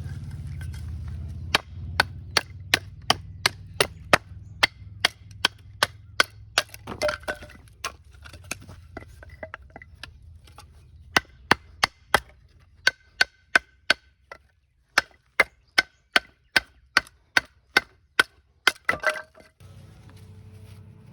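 Repeated sharp chopping strikes on wood, about two to three a second, in two long runs with a short pause about twelve seconds in.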